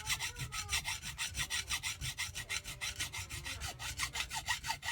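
A hand file rasping back and forth on the metal vane of a Kawasaki jet-ski pump in quick, even strokes, about five or six a second, filing away a raised burr.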